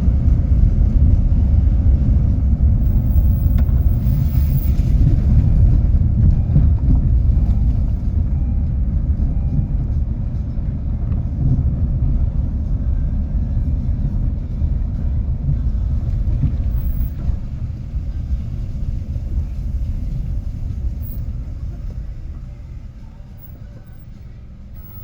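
A loud, steady low rumble that fades away over the last several seconds.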